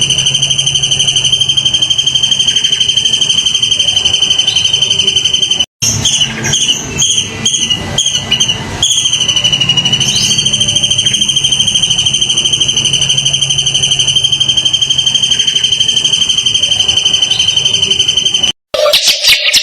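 Singing insect's high, fast-pulsing trill, a cricket-type stridulation held on one pitch. About six seconds in it breaks off for a few seconds of different chirps and falling notes, then resumes, and is cut off again near the end.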